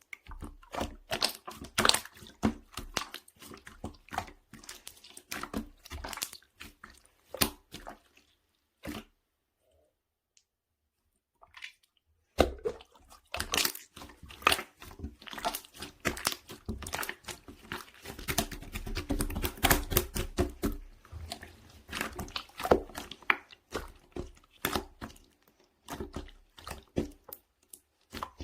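Hands squishing and pressing a soft, watery jelly slime, making dense wet clicking and popping squelches. The sound stops for a few seconds near the middle, then comes back thicker.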